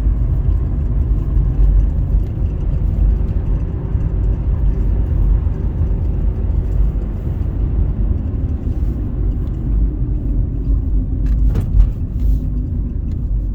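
Steady low rumble of a car driving, the road and engine noise heard from inside the cabin, with a brief knock near the end.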